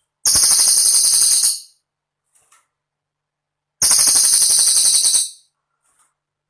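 Cililin song: two loud, high-pitched rapid trills, each about a second and a half long, with a pause of about two seconds between them and faint short calls in the gaps.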